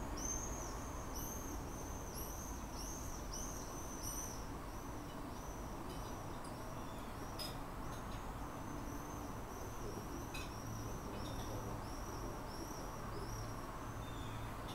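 A bird calling over and over: short high chirps, about two a second, with a steady low hum beneath. Two faint clicks come about halfway through.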